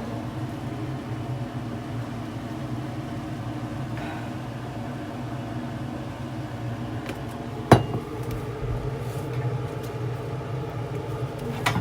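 Steady low kitchen hum while soup cooks on a gas stove, with one sharp clink of cookware about eight seconds in and a few lighter clinks near the end.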